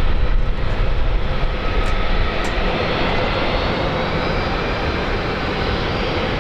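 Airliner's engines during a landing, a steady rumble with a faint high whine, easing off slightly over the few seconds.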